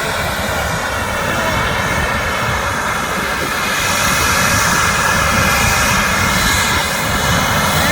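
Airbus jet airliner's engines at takeoff thrust: a steady heavy rumble with a high turbine whine over it, and a rushing hiss that swells from about four seconds in.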